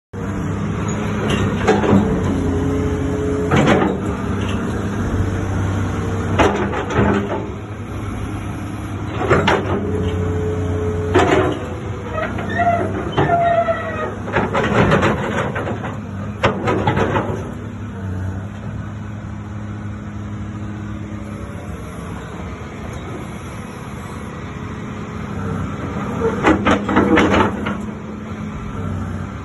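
Hitachi ZX200 excavator running, its diesel engine giving a steady hum, with a higher whine held at times and about ten short knocks and clanks spread through.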